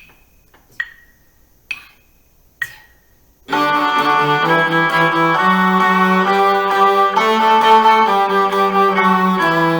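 Four count-in clicks a little under a second apart, then a cello starts bowing the exercise about three and a half seconds in, playing steady sixteenth-note patterns with short bow strokes.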